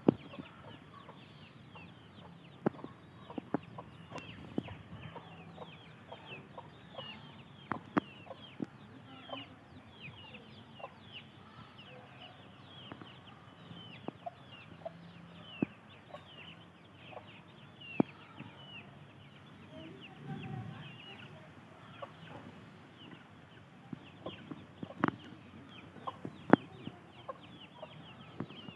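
A brood of three-day-old Hajra chicks peeping continuously, many short high falling cheeps overlapping, with scattered sharp taps throughout.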